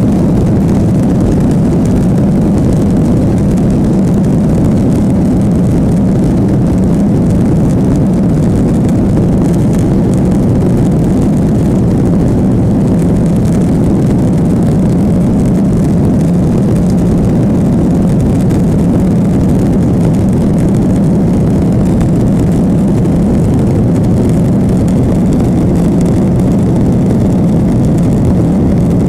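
Steady, loud roar of a Boeing 737's jet engines heard from inside the passenger cabin, deep and unbroken.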